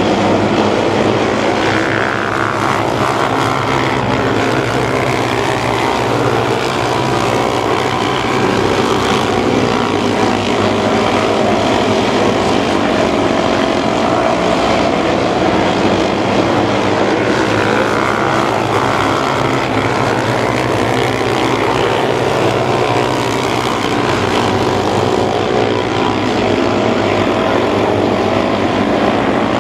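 Several mini sprint race cars' engines running hard in a pack, their pitch sweeping as cars go past.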